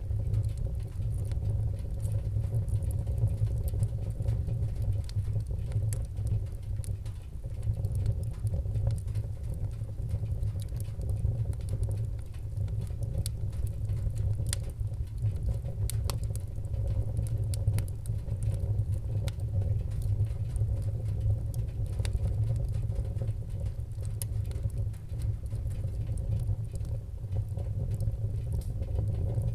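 Wood fire burning in a fireplace, with scattered sharp crackles and pops over a steady low rumble of flame.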